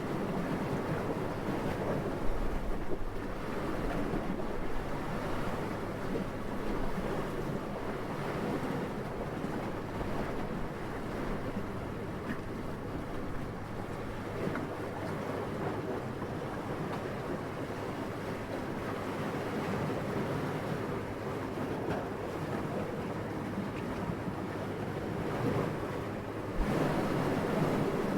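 Steady wind blowing, a soft even rushing with no tones, gusting up briefly about two seconds in and swelling again near the end.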